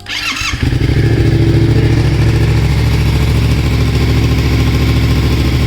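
A 2020 Yamaha MT-07's 689 cc parallel-twin engine, breathing through a cheap aftermarket full-system exhaust, starts and catches about half a second in, then settles into a loud, steady idle with an even pulsing beat.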